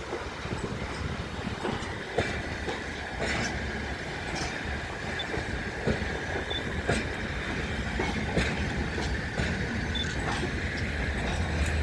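Freight train rolling past: a steady low rumble with wheel clacks over the rail joints about once a second, and a thin steady squeal from the wheels.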